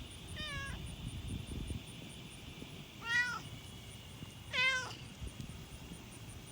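A house cat meowing three times in short calls, a fainter one at the start, then two louder ones about a second and a half apart.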